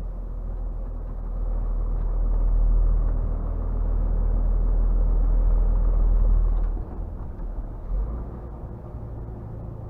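Scania R450 truck's 13-litre inline-six diesel engine running with a deep, steady hum while the truck drives, dropping suddenly in level about seven seconds in and running on more quietly.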